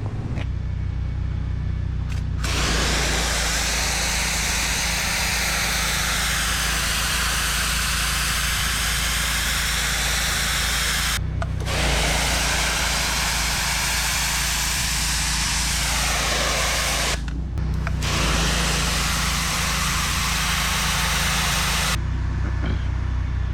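A pressure washer wand spraying water onto concrete saw slurry in three long blasts, each broken off briefly: one stop about halfway through and another about three quarters of the way through. Under the spray the pressure washer's engine runs steadily the whole time.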